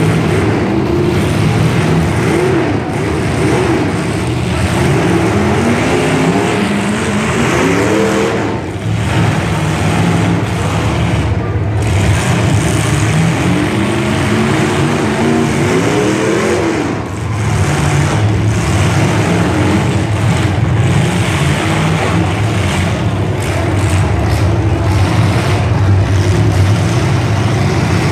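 Several demolition derby cars' engines running loudly, with the revs climbing hard twice, about six seconds in and again around fourteen seconds in.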